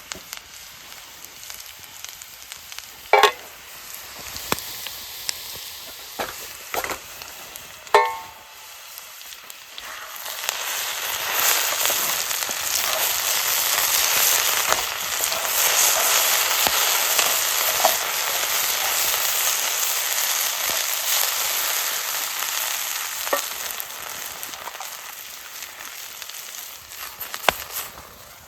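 Food sizzling in a hot carbon steel pan: the sizzle swells about ten seconds in, stays loud for ten seconds or so, then dies down. Before it come a few sharp metal knocks, one about three seconds in and one with a brief ring about eight seconds in.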